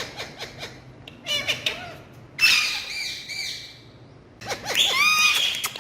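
Pet parrot calling: a few short clicky notes, then loud, warbling screeches about two and a half seconds in and again near the end.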